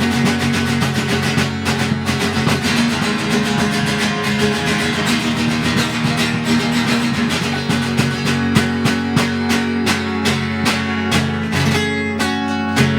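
Live band music led by strummed guitars over a steady beat, ending the song on a held final chord near the end.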